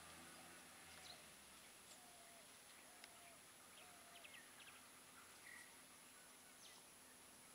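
Near silence: faint outdoor ambience with scattered short bird chirps and calls.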